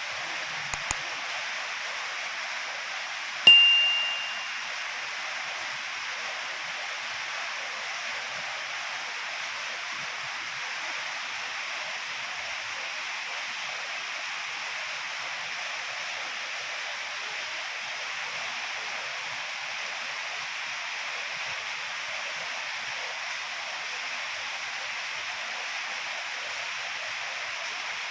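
Heavy rain falling in a steady, even hiss. About three and a half seconds in, a single sharp metallic ding rings out and fades within about half a second.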